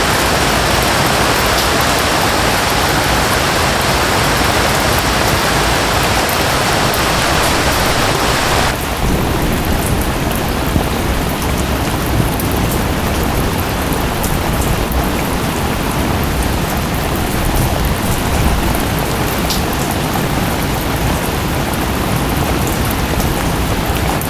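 Steady rushing of a waterfall that cuts abruptly, about nine seconds in, to heavy rain with a low rumble and scattered drop ticks.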